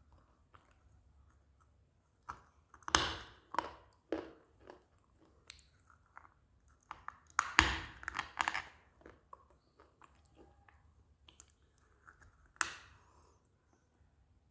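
Crunching bites into a hard piece of clay, then chewing it. There are three loud crunches, about three seconds in, about halfway and near the end, with smaller crackling chews between them.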